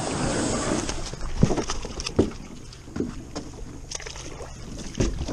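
Wind and water noise broken by several sharp knocks, the sound of handling aboard a small boat.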